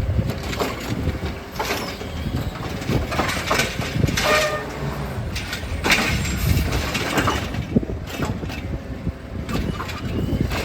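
Heil Rapid Rail automated side-loader garbage truck at work: the engine runs under a steady rumble, with repeated knocks and clanks of the lifting arm and cart, and a brief squeal about four seconds in.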